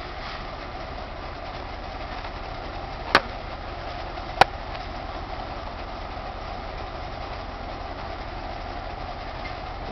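Car engine idling steadily, heard from inside the cabin, with two sharp clicks a little over a second apart partway through.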